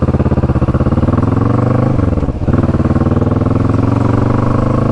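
Motorcycle engine running under way at steady revs; about two seconds in the revs drop and briefly break off, then pick up again.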